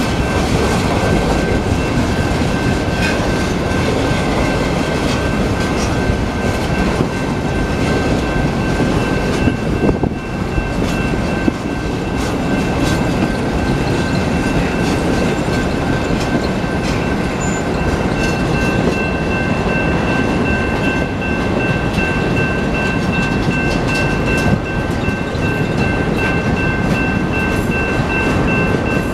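BNSF freight train cars rolling steadily past, with wheels clicking over the rails. A steady high-pitched two-note ringing tone carries on throughout.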